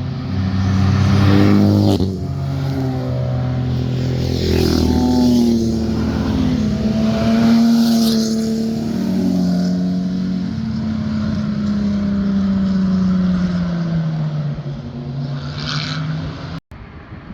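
Car engines accelerating and passing by, the engine note rising and falling with the revs, several surges of exhaust noise one after another. A sudden cut near the end drops to a quieter engine sound.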